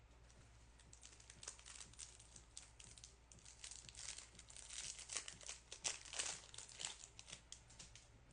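A trading-card pack wrapper being crinkled and torn open, a run of crackling rustles that grows busier and louder about four seconds in.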